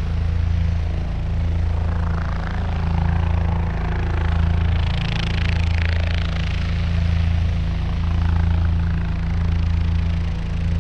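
Small electric motor spinning the rotor of a cardboard model helicopter, a steady low hum.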